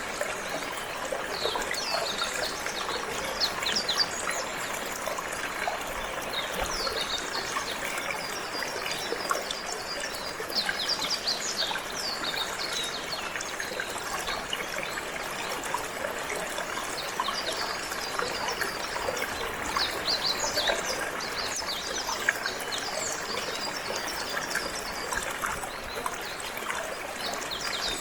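Water flowing and trickling steadily, with a canary singing quick, high chirping notes throughout.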